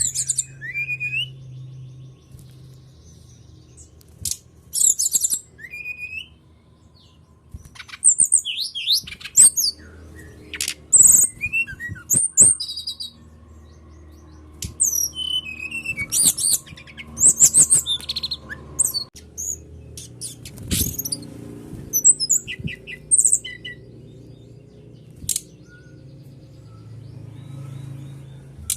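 Brown-chested jungle flycatcher song played as a lure: irregular phrases of high chirps and whistled notes that glide up and down, separated by short pauses. A faint steady low hum lies underneath.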